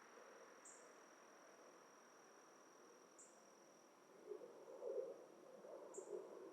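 Faint dusk insect chorus: a steady high-pitched trill with a short, higher chirp every few seconds. About four seconds in a louder, uneven low sound joins it.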